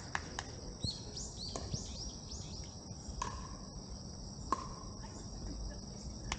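Insects buzzing: a steady high-pitched drone, with a quick run of short falling chirps about a second in.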